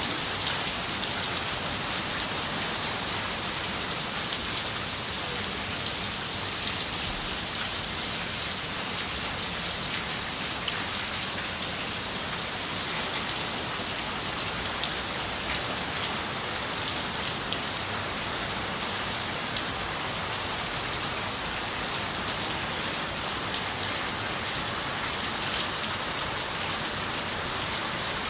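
Steady rain falling on a window, with scattered individual drops ticking sharply.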